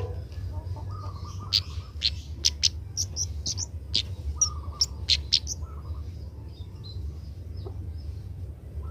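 Young kemade bird calling: a quick run of about a dozen short, sharp, high chirps in the middle, with softer, fainter notes before and after. A steady low hum runs underneath.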